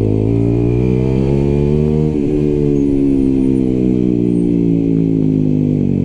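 125cc motorcycle engine under way, rising in pitch for about two seconds, a short break at a gear change, then a steady drone that slowly falls in pitch as the rider eases off.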